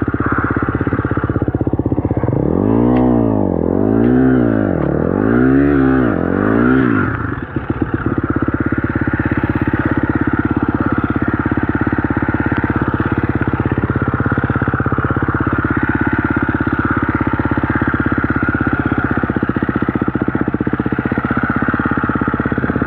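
Dirt bike engine revved three times in quick succession, the pitch rising and falling with each blip, then settling into a steady, even idle.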